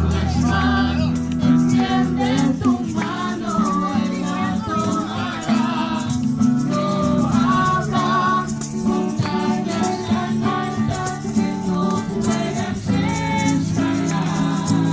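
Group singing of a Christian song, accompanied by a shaken rattle and a strummed guitar.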